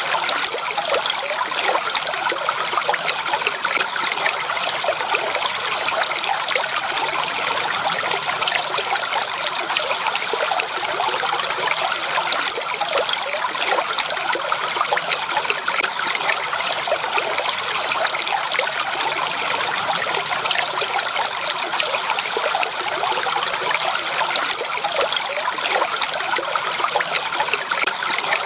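Stream water trickling and babbling steadily over stones, a dense run of small splashes with no pauses.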